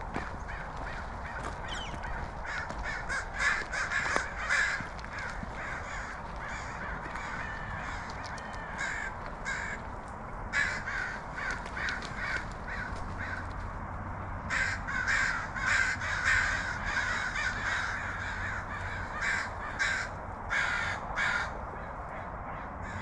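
Crows cawing repeatedly, in a run of short harsh calls that come in bunches, over a steady background hiss.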